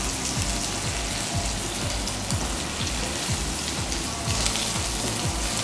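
Flour-coated veal sweetbreads sizzling steadily in very hot oil in a frying pan, with background music with a steady low beat underneath.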